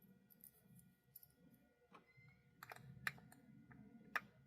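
Faint clicks and taps of small plastic model-locomotive parts being fitted together by hand, with a few sharper clicks in the second half against near silence.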